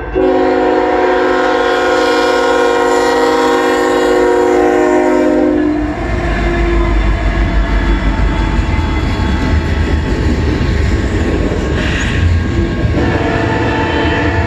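Freight locomotive's multi-note air horn sounding one long chord, which stops about six seconds in. A heavy rumble of the passing train follows, and the horn sounds again near the end.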